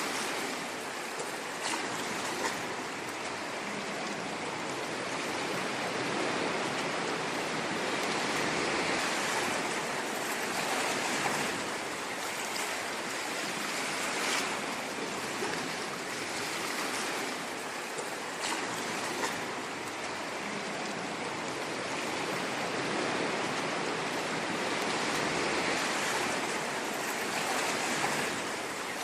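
Ocean surf washing in continuously, a steady rush that swells and eases slowly over several seconds, with a few brief splashes.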